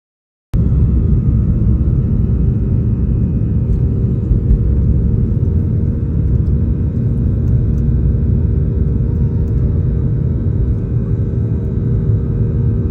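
Steady low rumble of a Boeing 737-800's CFM56 jet engines during takeoff, with a faint steady hum over it. It cuts in abruptly about half a second in.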